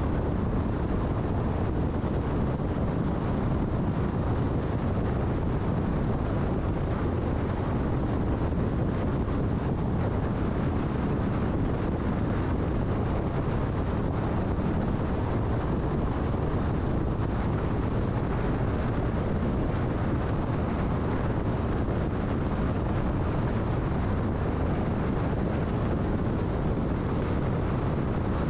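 Steady road noise of a car cruising at freeway speed: tyre rumble and wind noise, even and unbroken.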